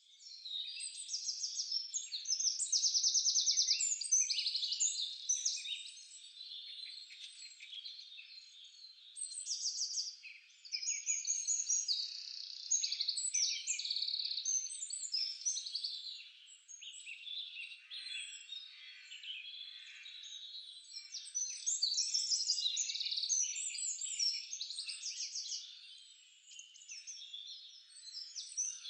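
A chorus of many small birds chirping and trilling over one another, thick with rapid high chirps that swell and ease in waves.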